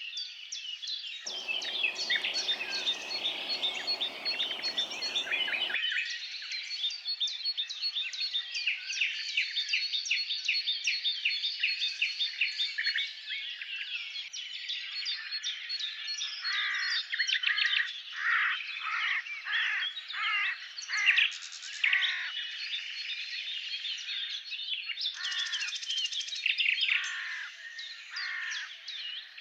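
Several birds singing at once, a dense chorus of chirps and trills. Through the middle and again near the end one bird repeats loud downward-sliding whistled notes, about two a second. A few seconds of rushing noise cut in near the start.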